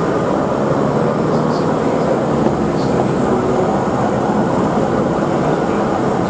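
A train running on the rails: a steady, even rumble of wheels and engine that holds level throughout.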